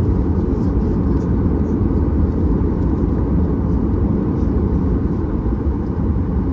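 Cabin noise of a Boeing 737-800 taxiing: a steady low rumble from its CFM56-7B engines at taxi power and the aircraft rolling along the ground.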